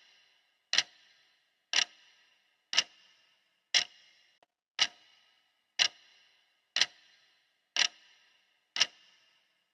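Clock ticking steadily, one sharp tick every second, each with a brief ringing tail.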